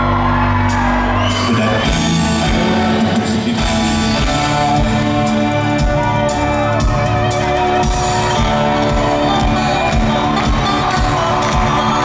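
Live rock band playing an instrumental passage at full volume, with a steady kick-drum beat under sustained chords, heard in a large hall.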